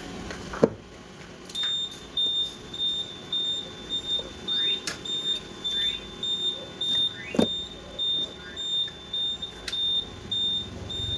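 Rapid high-pitched electronic beeping, evenly repeated about two to three times a second, starting about a second and a half in, with a few sharp clicks, the loudest just before the beeping begins.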